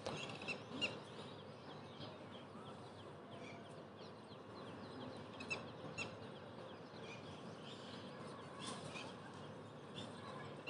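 Faint background bird chirping: many short, high calls scattered throughout, with a few soft clicks.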